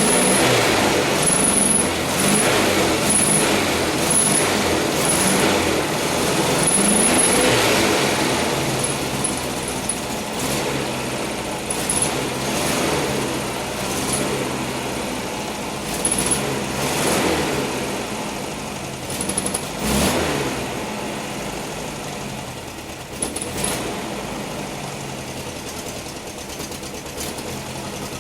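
Air-cooled flat-four engine of a 1968 VW Type 3 Fastback running after a cold start at 19°F with no carburettor chokes. A few short sharp sounds stand out over the running, and the sound gradually quietens.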